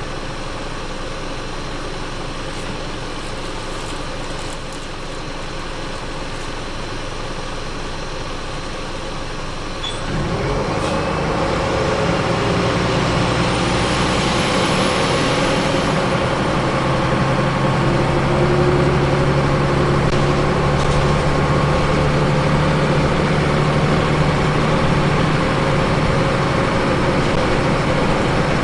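Scania L94UB ethanol-powered bus engine running quietly, then about ten seconds in it pulls away. The engine gets louder with a rising whine and then runs steadily under load.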